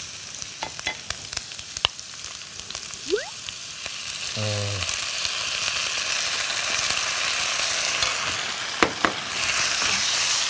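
A dark stir-fry sauce being poured into a hot wok of vegetables and sizzling. A wooden spatula clicks and scrapes as it stirs. The sizzle jumps up about four seconds in and grows louder as the sauce cooks into the vegetables.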